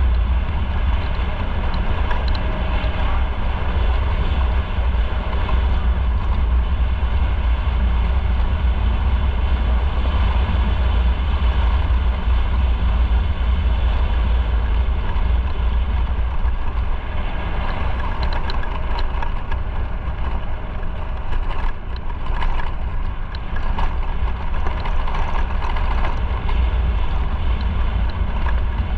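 Motorcycle riding at speed: engine and road noise under a heavy, steady wind rumble on the microphone.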